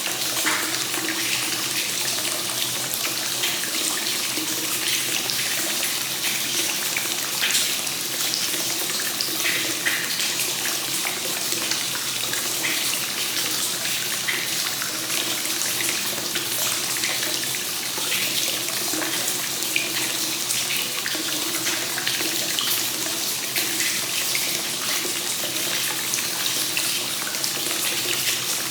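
Free-flowing hot spring water (kakenagashi) pouring steadily into an onsen bath, splashing and gurgling with many small irregular splashes over an even rush.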